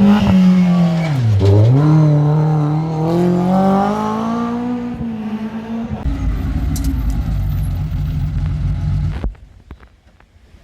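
Historic rally car's engine under hard driving, its revs dropping sharply about a second and a half in and climbing back up. About six seconds in it turns to a rougher low rumble, which cuts off suddenly near the end, leaving a much quieter background.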